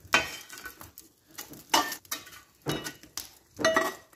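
Metal fireplace tools scraping and clinking as hot coals are shovelled onto a bed for Dutch-oven cooking: a run of short, irregular scrapes and knocks, some with a brief metallic ring.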